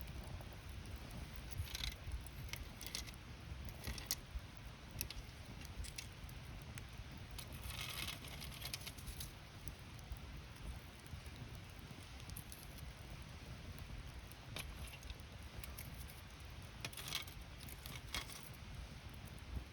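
Wood campfire crackling, with irregular sharp pops over a steady low rumble. There are thicker clusters of crackles about eight seconds in and again near the end.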